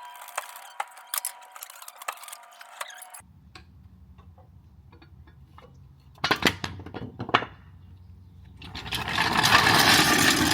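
Work sounds of metal parts being handled: light clinks and clicks, then a quick run of loud sharp knocks, then a loud steady hissing rush lasting about two seconds near the end.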